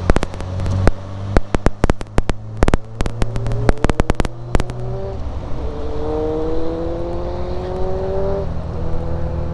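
Triumph Vitesse 2-litre straight-six engine under load, its note rising steadily as the car accelerates, dropping back twice at gear changes, about five seconds and eight and a half seconds in, then running steady. A burst of sharp crackles and knocks on the microphone fills the first five seconds.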